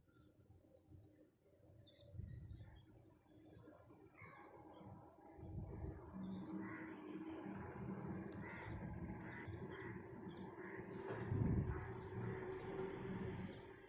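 Birds calling in a tree: a short high chirp repeating about twice a second, over lower chattering calls that grow busier from about six seconds in, with a low rumble underneath.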